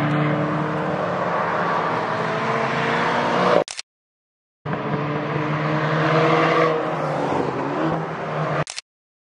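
Renault Clio R.S. hatchbacks' turbocharged four-cylinder engines running under load through circuit corners, with a car passing and its engine note falling. The sound cuts to silence for about a second a little past a third of the way in, and again near the end.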